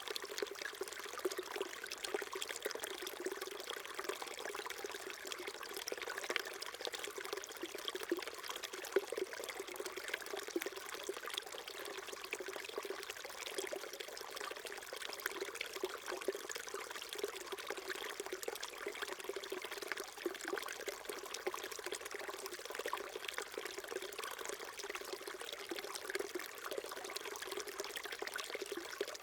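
Small stream flowing steadily over stones, a continuous babbling trickle with many small splashes.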